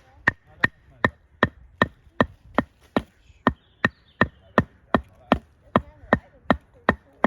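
Steady, evenly paced strikes on wood, about two and a half blows a second, each a sharp knock, like a hatchet or mallet chopping or driving wood.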